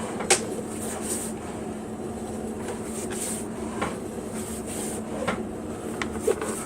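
Steady hum with a few light clicks and knocks scattered through it, heard in a small room.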